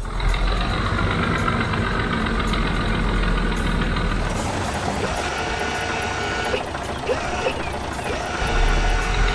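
A heavy truck engine running steadily, starting abruptly with a deep rumble.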